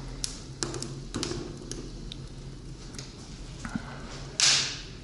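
Firewood burning in a firebox, crackling with scattered sharp pops and one louder crack about four and a half seconds in, over a low steady hum.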